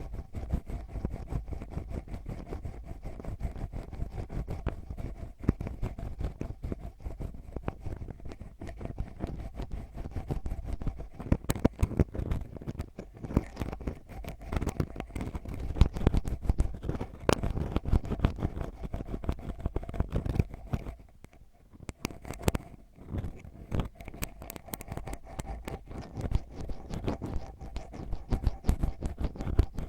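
Ear pick scratching and scraping right at the microphone in ASMR ear cleaning: dense, rapid scratches over a low rumble, with a short quieter pause about two-thirds of the way through.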